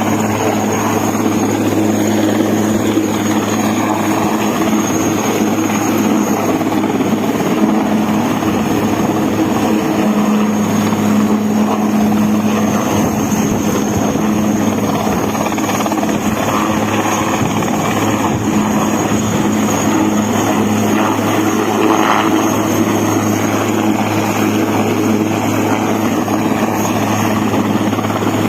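Military helicopter running steadily: a loud, unchanging drone of engine and rotors with a constant low hum and a thin high whine.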